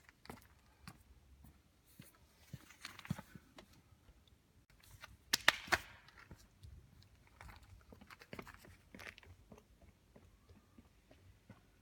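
Basketball shooting practice: scattered thuds and taps of the ball, with a louder cluster of sharp hits about five and a half seconds in.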